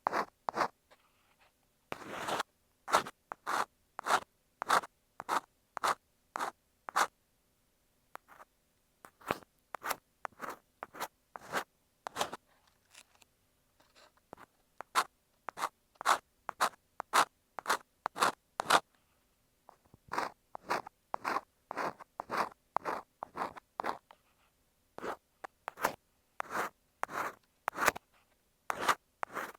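Ear pick scraping against an earphone microphone, as in ear cleaning, in short repeated strokes about two a second with a few short pauses.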